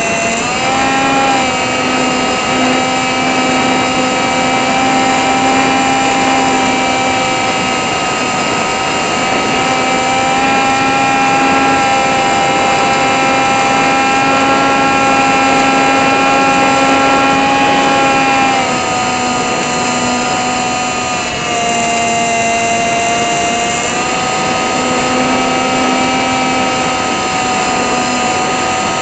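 Small brushless outrunner motor (RCX NK1103, 10000KV) spinning a 3-inch propeller, heard from the camera on the plane in flight: a steady high whine with rushing air. The pitch sags about two-thirds of the way through as the throttle is eased, then rises back near the end.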